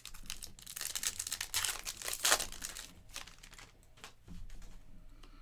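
Foil wrapper of a trading-card pack crinkling and tearing as it is ripped open, loudest about two seconds in, followed by a few light clicks and rustles.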